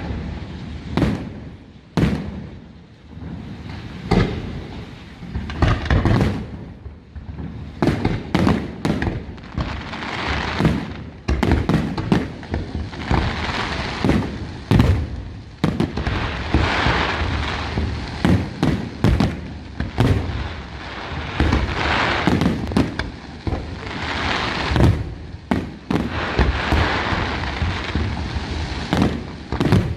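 Aerial fireworks display: a rapid, continuous series of shell bursts and booms with crackling in between, growing denser about ten seconds in.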